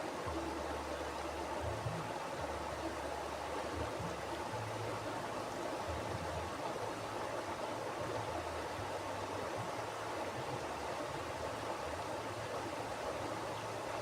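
Mountain river flowing: a steady rush of water, with a low rumble underneath that comes and goes.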